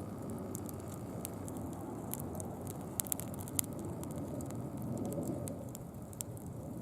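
Small wood-and-leaf campfire crackling over a low steady rumble, with frequent sharp pops and a few louder snaps about three seconds in.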